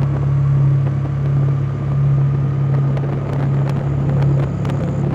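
A vehicle engine running with a steady low drone, over a rushing noise.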